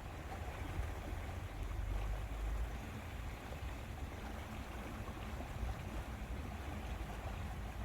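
Lakeside ambience: wind rumbling on the microphone over a steady soft wash of water.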